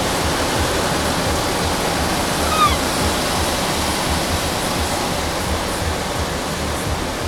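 Automatic car wash spraying water over the car, heard from inside the cabin as a steady rushing hiss with irregular low thuds underneath. A short falling squeak comes about two and a half seconds in.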